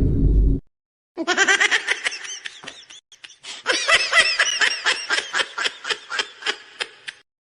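High-pitched laughter in rapid pulses, in two bouts with a short break between them, as a meme sound effect. Before it, a loud, bass-heavy sound effect cuts off suddenly about half a second in.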